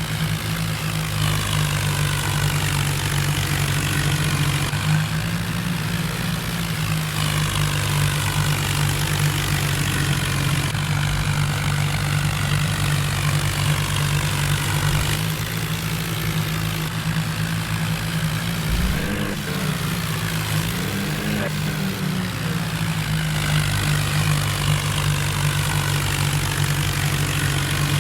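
John Deere tractor's diesel engine running steadily, its pitch rising and wavering briefly about two-thirds of the way through.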